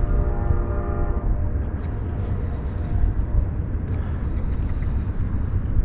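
A distant horn sounds one steady note for about a second and a half at the start, with a fainter tone following shortly after, over a constant low rumble.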